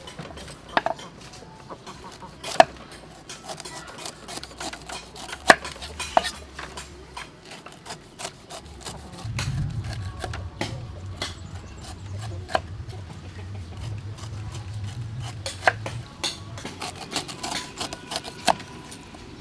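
Kitchen utensils clinking and tapping against pots and dishes at irregular intervals, some strikes ringing briefly, with a low rumble in the middle stretch.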